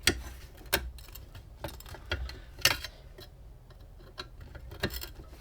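Irregular clicks and light knocks of metal fan parts being handled and moved during hand disassembly, several sharp taps scattered through, the loudest right at the start and near the end.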